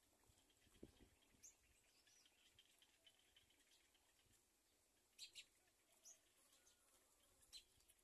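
Faint, scattered short high-pitched bird chirps, about half a dozen, the loudest pair a little past five seconds in. A soft low thump about a second in.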